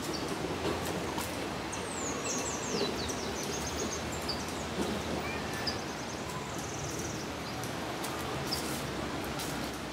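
Steady outdoor background noise with small birds calling high and thin overhead: a quick run of falling notes about two seconds in, and another short trill later.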